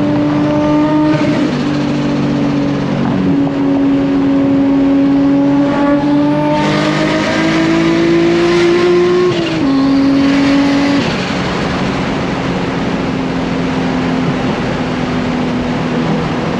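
Nissan Skyline R34 GT-R's big-turbo RB26 straight-six heard from inside the cabin on the move. Revs climb gently from about six seconds in, then drop with an upshift near the ten-second mark, and the engine settles into a steady cruise.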